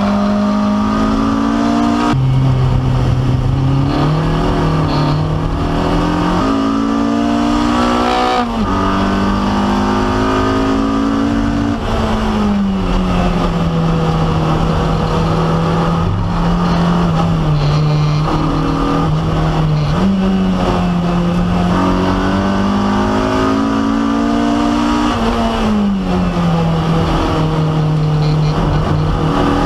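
Honda K24 inline-four engine of a K24-swapped Toyota MR2 Spyder at full track pace, heard from inside the cabin. Its pitch climbs under throttle and drops abruptly several times, holding steady in between, over road and wind noise.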